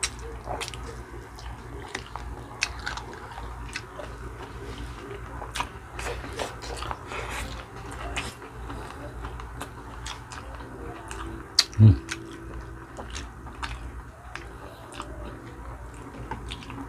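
Close-miked chewing and eating by two people: wet mouth smacks and small clicks. There is one short, loud low sound about two-thirds of the way through.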